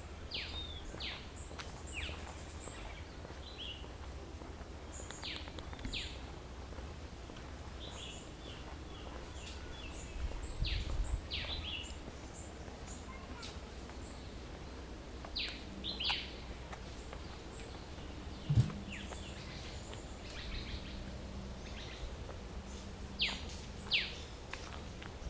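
Garden birds calling: scattered short, quickly falling chirps, some in quick runs, over a steady low outdoor rumble. A single sharp thump comes about two-thirds of the way through.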